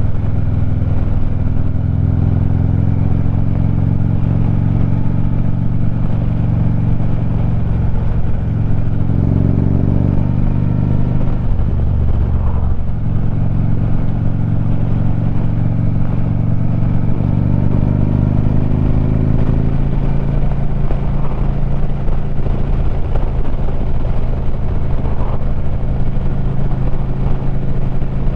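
Harley-Davidson Street Glide's V-twin running through 4.5-inch Sharkroad mufflers while riding at a steady cruise. The engine note drops and then climbs again about ten to thirteen seconds in, as when shifting or easing off and back on the throttle.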